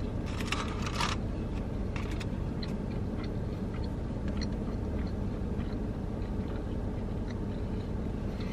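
Someone chewing a mouthful of sub sandwich with small, faint wet mouth clicks, over a steady low rumble. About half a second in there is a brief crisp crinkling.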